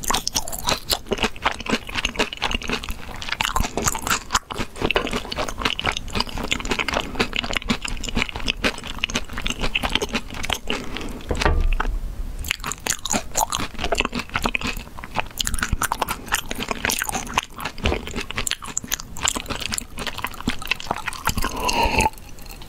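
Close-miked crunching and chewing of crisp food, with many irregular crunches in quick succession.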